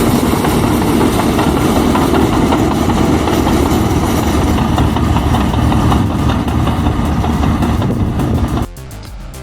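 Heavy-equipment diesel engine running steadily with loud track and machine noise, which cuts off suddenly near the end, replaced by quieter background music.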